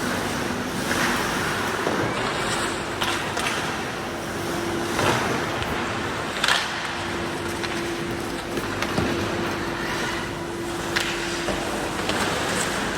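Hockey game on a rink: skates scraping steadily, with scattered sharp knocks of sticks and puck, the loudest a few seconds in.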